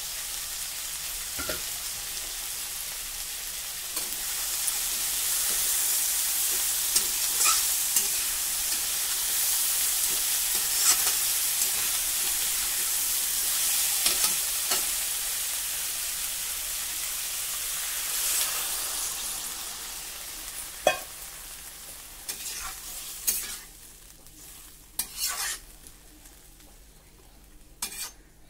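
Bottle gourd shoots and stems sizzling as they fry in an iron kadai, stirred with a metal spatula that scrapes and knocks against the pan. The sizzle dies down after about twenty seconds, leaving only occasional spatula knocks.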